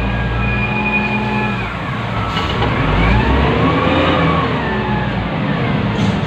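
Wheel loader's diesel engine heard from inside the operator's cab, revving up and back down around the middle, with a high whine that rises and falls in pitch along with it.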